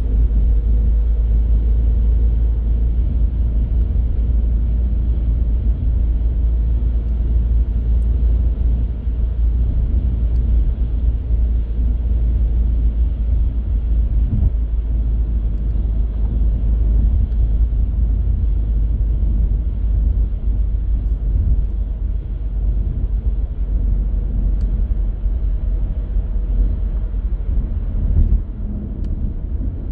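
Car driving: steady low rumble of road and engine noise, with a slight drop in level near the end.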